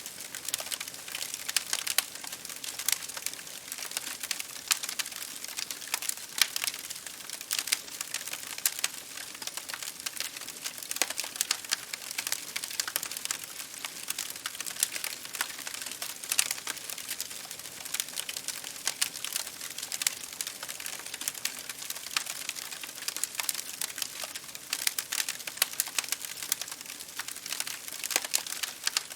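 Campfire crackling: a steady hiss with dense, irregular pops and snaps of burning wood.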